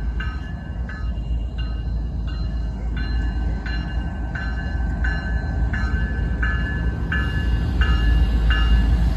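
Freight train led by a CSX locomotive rumbling past, getting louder toward the end, while a bell rings steadily about twice a second.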